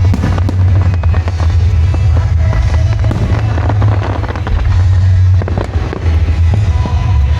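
Aerial fireworks bursting and crackling in quick succession, with many sharp reports over a heavy, continuous low rumble. Music plays along with them.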